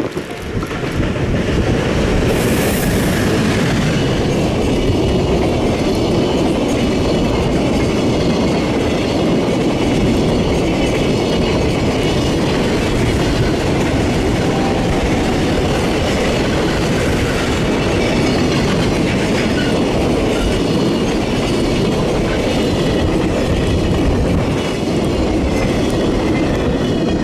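EF510 electric locomotive hauling a long container freight train past at close range, the wagons' wheels clattering steadily over the rail joints. It is loud throughout and fades as the last wagon clears near the end.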